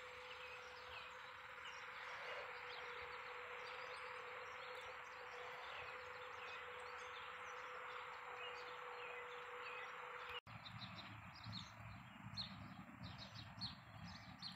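Small birds chirping faintly over a steady outdoor hiss with a thin hum. After a break about ten seconds in, the chirps come quicker and clearer over a low rumble.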